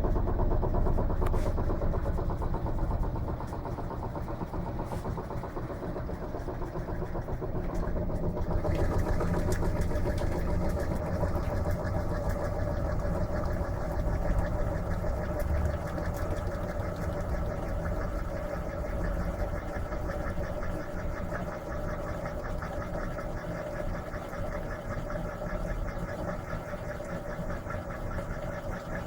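Electrolux LM13Q top-load washing machine running mid-cycle with a steady motor sound. About eight seconds in the sound changes, turning hissier with steadier tones.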